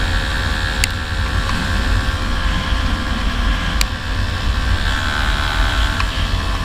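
Yamaha F1ZR two-stroke motorcycle running on the move, under a heavy low wind rumble on the microphone, with a couple of brief clicks.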